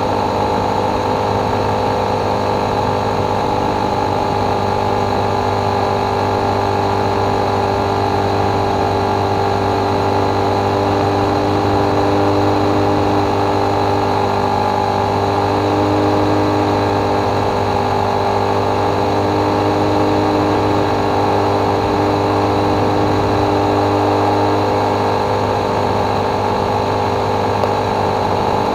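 Motorcycle engine running steadily at cruising speed, its note holding even as the bike travels along the road.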